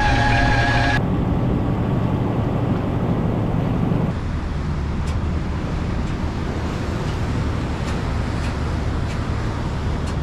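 Steady low rumble of a prawn trawler's engine while the boat is under way. A steady whine is mixed in for about the first second, and the sound changes abruptly at about one second and again at about four seconds in.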